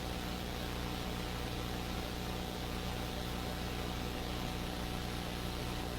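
Steady drone of a police helicopter's cabin noise heard through the crew's intercom audio: an even hum of several low tones under a flat hiss.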